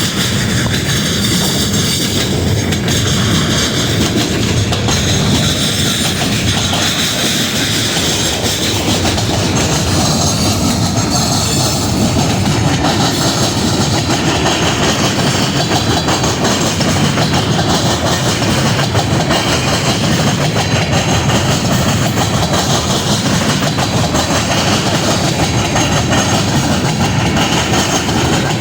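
A train rolling past, its cars' wheels running on the rails in a steady, loud noise.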